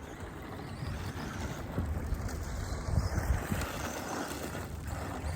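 Team Associated SC10 electric short-course RC truck running on dirt, its brushless motor and tyres making a steady hiss. Wind buffets the microphone with low thumps near the middle.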